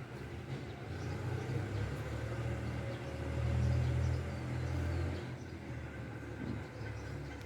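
A low, steady rumble that swells for a couple of seconds about midway, then settles back.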